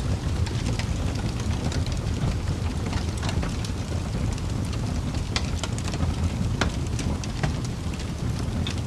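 Wood fire burning in a fireplace: a steady low rumble of the flames with irregular sharp crackles and pops from the burning logs, a few louder ones in the middle.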